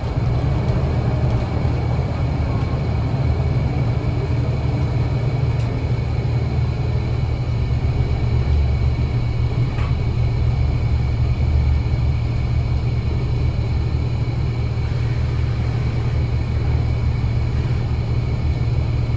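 Scania L94UA bus under way, its diesel engine and running gear making a steady low rumble with no change in pace.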